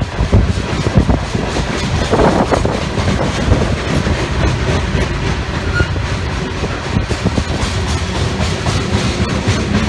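Loaded coal hopper cars of a freight train rolling past, their wheels clacking over rail joints above a steady rumble.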